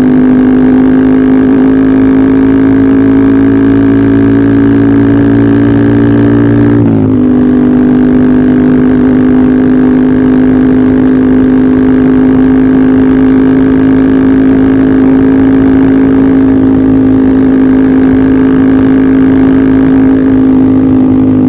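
Yamaha R15 V3's single-cylinder 155 cc engine running loudly at steady revs through an aftermarket Arrow-replica racing exhaust, the pitch dipping briefly about seven seconds in and then holding steady again.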